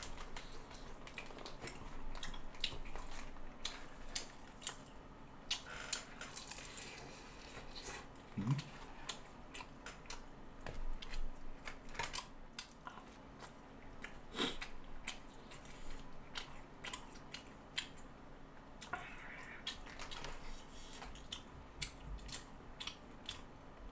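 A man eating close to the microphone: steady chewing and mouth sounds with many short, scattered clicks of chopsticks and a spoon against plastic food containers. A brief low hum of his voice about eight and a half seconds in.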